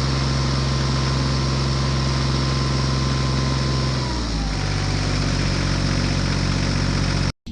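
A motor running steadily with an even hum, dropping to a lower speed about four seconds in.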